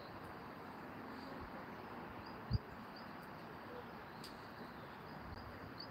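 Soft steady hiss of light rain, with faint high bird chirps repeating every second or so and a single low thump about two and a half seconds in.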